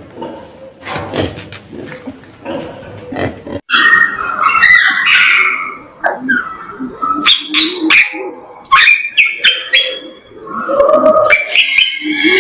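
Animal calls: soft clicks and shuffling, then after a sudden cut about three and a half seconds in, a run of loud short squeals and cries.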